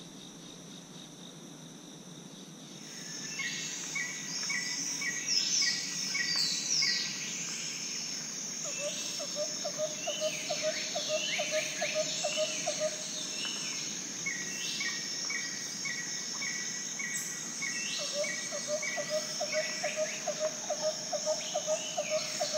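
Songbirds singing over a steady high-pitched insect drone: strings of repeated notes and downward-sweeping phrases begin about three seconds in, and a low, fast trill runs twice for a few seconds each.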